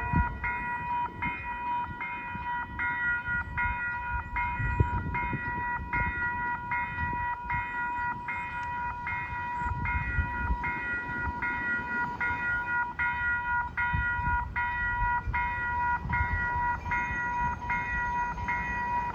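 Railroad grade-crossing warning bell ringing steadily, about one and a half strokes a second, over the low rumble of a South Shore Line electric train stopped at the station.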